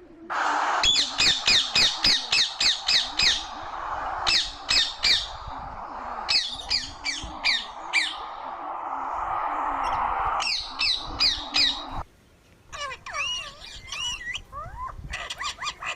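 Parrot squawking in fast runs of shrill calls, about four a second, in several bouts over a steady hiss. After a short break about twelve seconds in, a different run of warbling, bending calls follows.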